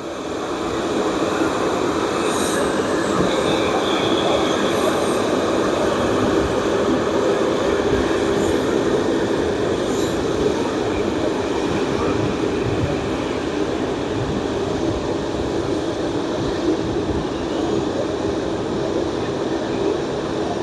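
Jet engines of an Embraer E195-E2 (Pratt & Whitney PW1900G geared turbofans) running at taxi power as the airliner taxis. It is a steady jet rumble with a held hum, swelling up in the first second or so.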